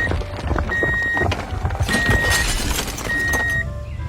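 Small plastic Lego pieces clattering as they tip out of a toy dump truck's raised bed, over a low motor rumble. A short high beep repeats about every 1.2 seconds.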